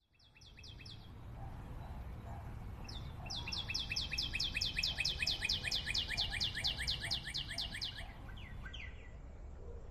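A songbird singing: a brief run of quick, high, downslurred notes, then a long rapid trill of the same notes at about six a second lasting some five seconds, ending with a couple of slower notes.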